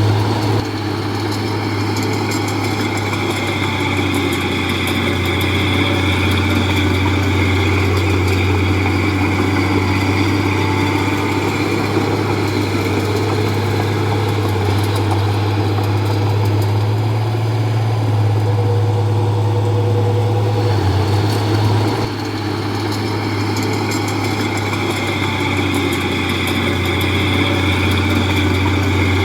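Komatsu D31P bulldozer's diesel engine running steadily under work, with a steady higher whine over the engine hum; the engine note eases briefly about a second in and again about 22 seconds in.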